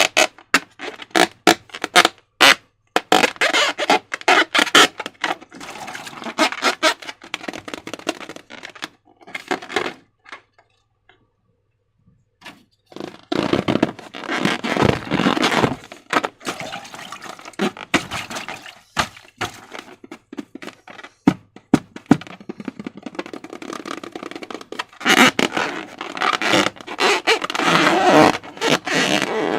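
Slime being squished and stretched by hand, making sticky crackling and clicking. It breaks off for about three seconds a third of the way in, then starts again and grows busier near the end.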